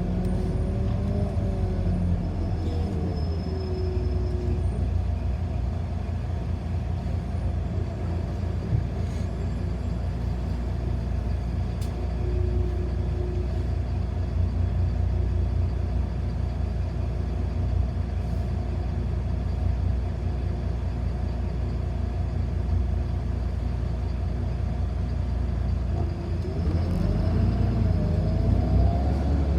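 A city bus heard from inside while it drives: a steady low rumble. The drive pitch glides up and down at the start and again near the end as the bus changes speed.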